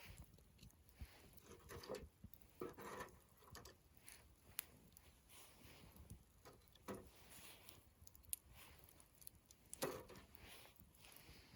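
Faint wood campfire crackling: scattered sharp pops among a few soft, brief rustling scuffs.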